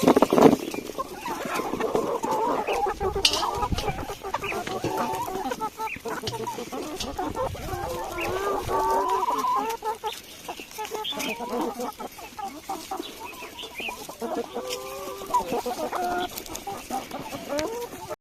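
Several domestic chickens clucking, with overlapping calls throughout and a few sharp knocks among them.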